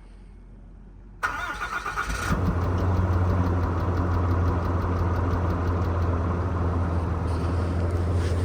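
Ram pickup truck's engine cranked by the starter for about a second, then catching and settling into a steady idle.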